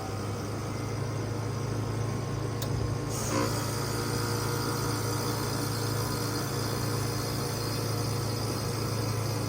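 Trane XR14 heat pump compressor humming steadily during a defrost cycle. About three seconds in there is a small click, then a sudden whoosh of refrigerant as the reversing valve shifts, which settles into a steady hiss over the hum.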